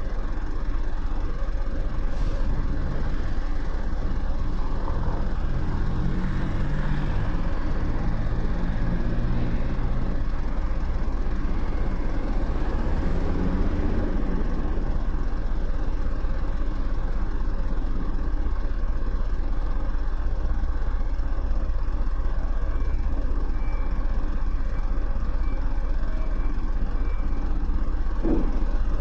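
Motorcycle engine running on the move, under a steady low rumble of wind on the microphone. The engine note shifts up and down in steps between about five and eleven seconds in.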